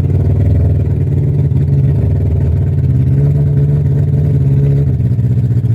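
Kawasaki ZZR1100 inline-four motorcycle engine, swapped into a Fiat Panda, running steadily with small rises and falls in pitch.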